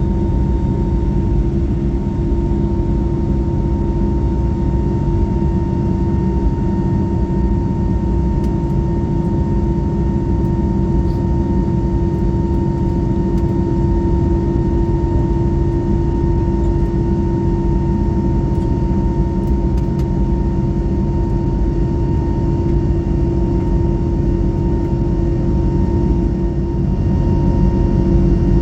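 Cabin noise of an Airbus A321neo airliner: its jet engines and airflow make a steady drone, with a low hum and a fainter higher whine held at an even pitch.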